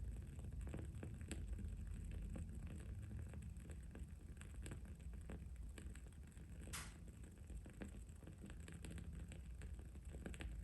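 Wooden-wick candle crackling: faint, irregular small ticks and pops, with one sharper crackle about two-thirds of the way in, over a steady low background hum.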